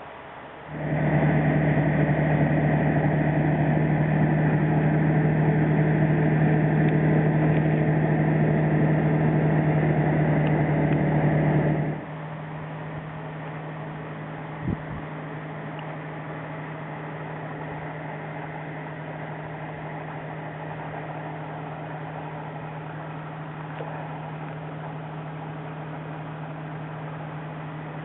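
A heavy machine's engine or motor running steadily with a constant pitched hum. About a second in it comes up loud, and near the middle it drops suddenly to a quieter, still steady run, with one short knock shortly after.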